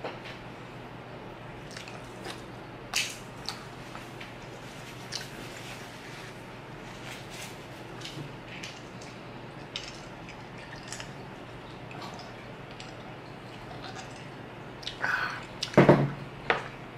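Close-miked chewing of a piece of steak: scattered wet mouth clicks and smacks. Near the end comes a louder short clatter of knocks as the knife and fork are picked up from the wooden board.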